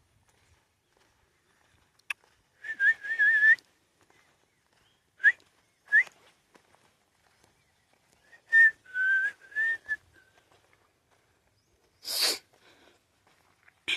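A person whistling through the lips: short warbling phrases and quick rising chirps with pauses between them. The whistling is breathy, and a short burst of breath or hiss comes near the end.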